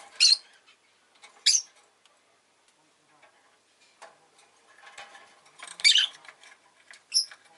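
Rosy-faced lovebird giving short, sharp, high-pitched chirps a second or more apart, the loudest around three-quarters of the way through, with soft clicking and rustling between calls.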